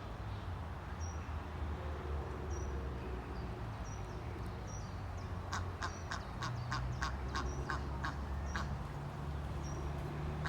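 A duck quacking in a quick run of about a dozen calls a little past the middle, with short high peeps of ducklings scattered throughout.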